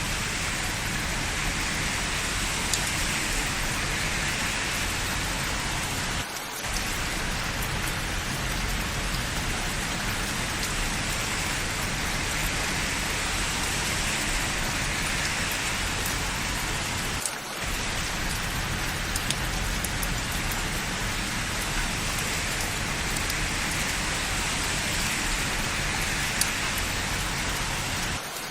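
Steady rain falling, an even hiss with no other events, dipping briefly about every eleven seconds.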